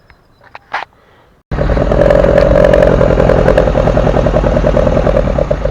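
A few faint clicks, then about one and a half seconds in a loud engine starts up abruptly and runs steadily: the Golf's 2.0 8-valve four-cylinder on twin Weber 40DCOE carburettors, breathing through 4-2-1 headers and a Supersprint exhaust.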